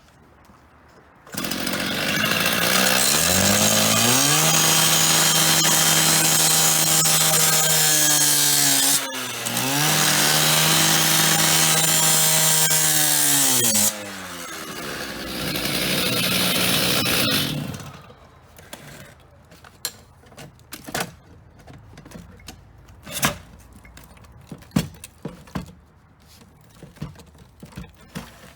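Electric angle grinder cutting into the payphone's metal housing. It spins up a little over a second in and runs at a steady high whine with a harsh hiss of cutting. It slows and picks up again about nine seconds in, eases off around fourteen seconds, cuts once more and winds down about eighteen seconds in, after which there are scattered light clinks and taps.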